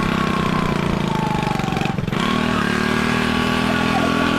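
Motorcycle engine running steadily, with its loose spark plug retightened. About two seconds in the note dips briefly, then settles slightly higher and holds.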